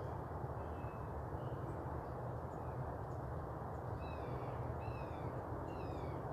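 Osprey calling: faint chirps at first, then from about four seconds in a run of short, falling whistled notes about one a second, over steady low background noise.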